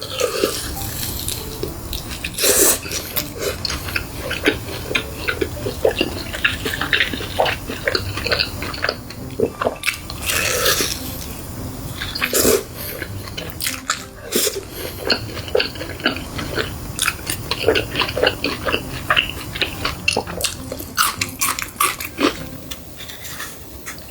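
Close-miked eating: crisp crunchy bites and wet, smacking chewing, in many irregular crackles with a few louder crunches.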